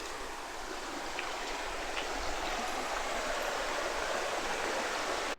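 A river flowing, a steady rush of water that grows a little louder and then cuts off suddenly near the end.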